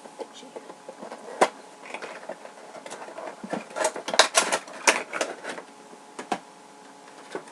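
Cardboard and plastic packaging of a boxed vinyl figure being handled: a run of crinkles and clicks, densest about four to five seconds in.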